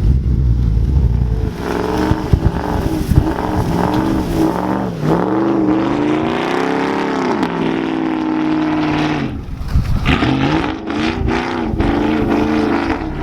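Pickup truck engine revving hard, its pitch wavering up and down and climbing to a peak before falling away; it eases off briefly about nine and a half seconds in, then revs again.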